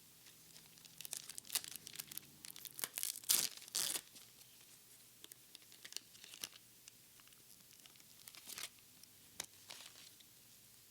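Foil Pokémon card booster pack being torn open and crinkled: a quick run of sharp tearing and crackling, loudest about three to four seconds in, followed by scattered softer crinkles.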